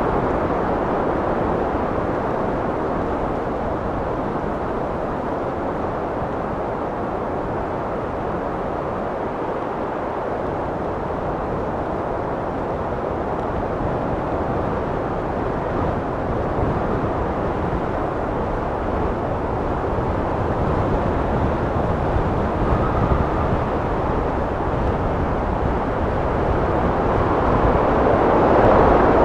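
Wind blowing in a steady low rush, easing off about a third of the way in and building into a stronger gust near the end.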